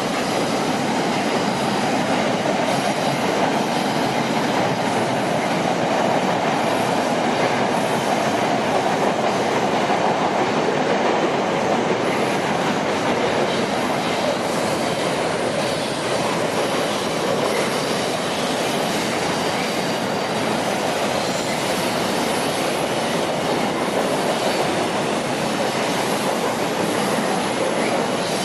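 A CSX train's cars rolling past on the rails: a steady, loud noise of wheels on track that holds even throughout, with no horn.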